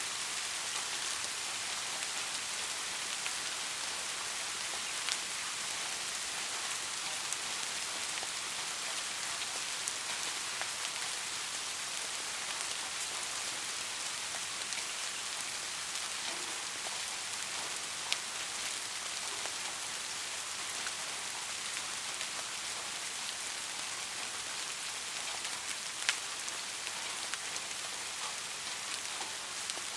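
Steady rain falling, a dense even hiss with scattered individual drops ticking, a few sharper drop hits standing out now and then.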